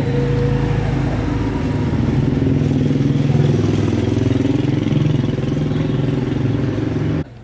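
A motor running loudly and steadily, its pitch edging up a little, then cutting off abruptly near the end.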